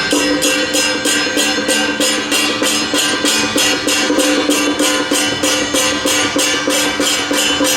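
Traditional temple-procession music: cymbals or small percussion struck in a fast, even beat, about four to five strokes a second, over steady held tones.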